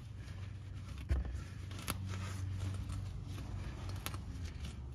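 Wiping up spilled oil under a car with a shop rag: faint rustling and a few light clicks and knocks, over a steady low hum.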